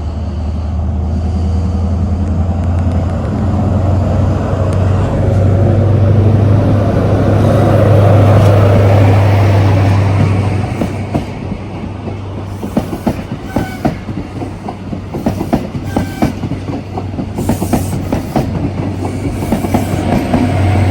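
Diesel train running, with a steady low engine hum that is loudest about halfway through. In the second half the hum drops back and the wheels clack over rail joints in quick, uneven clicks. The hum swells again near the end.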